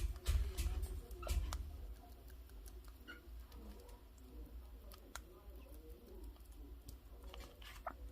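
Broody hen sitting on eggs, making soft, low, wavering clucks. A few sharp taps and low bumps come in the first second and a half.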